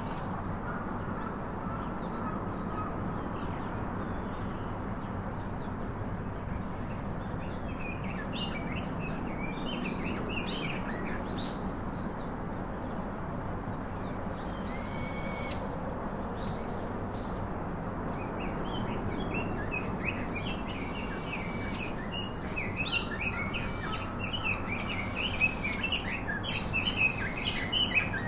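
Birds chirping in short high calls over a steady low background noise. The calls are sparse at first and become busy over the second half.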